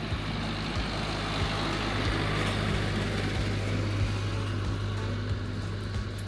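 A machine running steadily: a low, even hum under a wash of noise.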